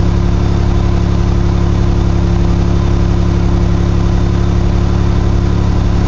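1982 GMC S-15's carbureted 2.8 L V6 running at a steady fast idle on the choke during a cold-start warm-up. The engine is loud, which the owner puts down to a cracked exhaust manifold.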